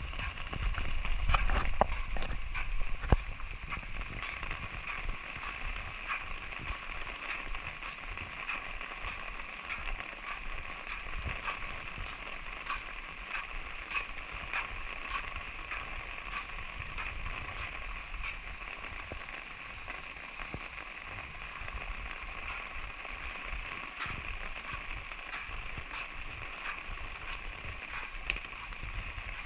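Light rain falling steadily, with scattered drops tapping close by. A louder low rumble sits under it for the first three seconds or so.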